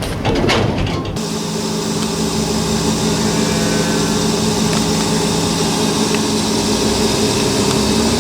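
A short stretch of rough, clattering noise, then from about a second in a machine motor running with a steady, even hum.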